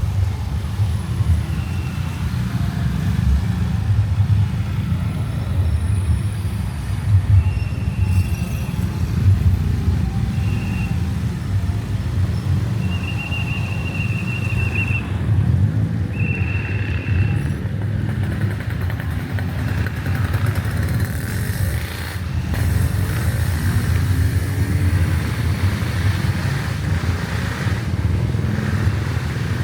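Motorcycle engine running under way, a steady low rumble with road and wind noise. Several short high tones sound in the first half.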